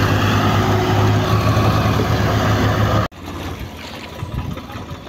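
Swaraj 855 FE tractor's three-cylinder diesel engine running loudly and steadily with a strong low hum. About three seconds in it cuts off abruptly, and a quieter, rougher engine sound follows.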